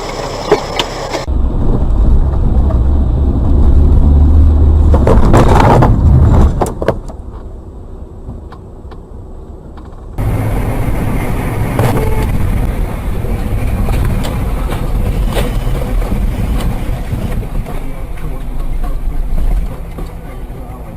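Dashcam recordings of moving cars: a steady low engine and road rumble that changes abruptly several times as one clip cuts to the next, with a few sharp clicks about halfway through.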